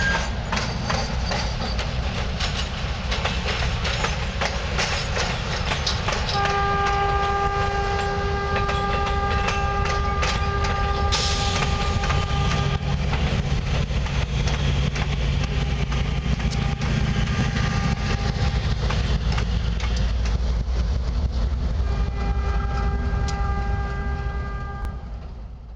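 Passenger train with Illinois Central business cars and diesel locomotives passing close by, wheels clicking and rumbling over the rails. A locomotive horn sounds one long blast from about six to thirteen seconds in, briefly again later, and once more near the end.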